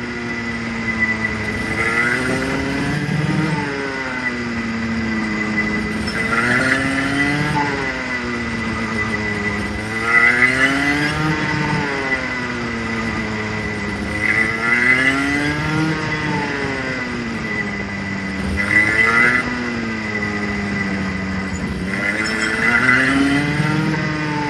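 Rotax Junior Max 125 two-stroke go-kart engine revving up and backing off over and over, about six times, every four seconds or so. It is being run in, cycled between about 6,000 and 10,000 rpm. A steady high tone runs under it.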